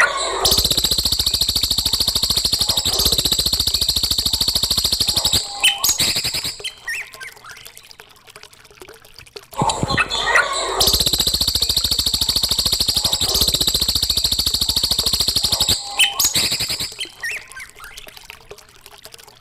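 Recorded songbird song played as a training (masteran) track: a loud, very rapid buzzing trill lasting about five seconds, followed by a few sharp chirps and a quieter stretch, the whole phrase repeating a second time.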